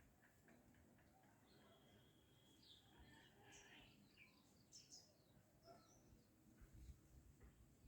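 Faint birds calling: many short chirps in quick succession, with one longer held note about a second and a half in.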